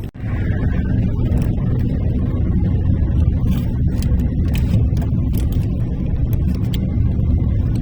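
Car on the move: a steady low rumble of engine and road noise, with a few faint clicks over it.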